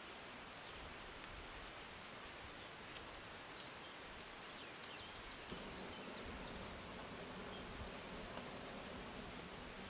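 Steady outdoor background hiss of a forest, with a few small clicks, then a bird singing high, quick trilled phrases from about halfway.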